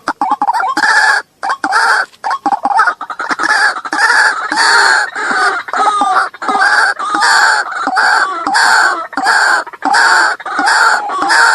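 White-breasted waterhen (ruak-ruak) calls played as a trapping lure: harsh, rasping calls repeated about twice a second without a break.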